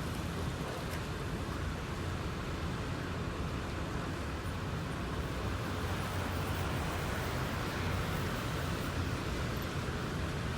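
Steady road noise of a vehicle driving: a low rumble with an even hiss of tyres and air.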